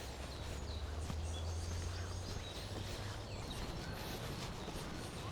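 Birds calling and chirping in woodland, several short high-pitched notes scattered through, over a steady low rumble of wind on the microphone.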